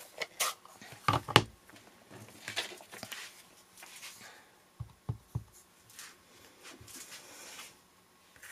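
Stamping supplies being handled on a craft table: a string of irregular clicks, light knocks and rustles, with a louder knock just over a second in and a few soft thumps about five seconds in.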